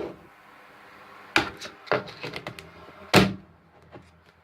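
A few short knocks and taps from hard objects being handled, the loudest about three seconds in.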